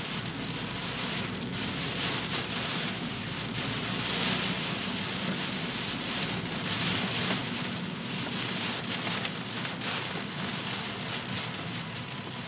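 Heavy typhoon downpour: dense rain hissing steadily, swelling and easing every few seconds, over a low rumble.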